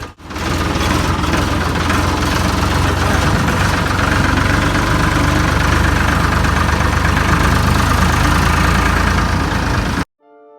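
Diesel farm tractor engine running steadily, then cut off abruptly near the end.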